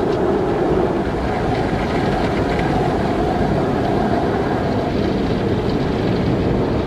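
Automatic car wash running: a loud, steady wash of water spray and machine noise.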